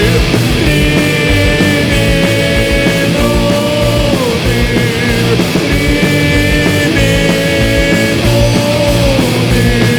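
Rock music: an instrumental passage with loud, dense band accompaniment and long held notes that slide down in pitch a few times.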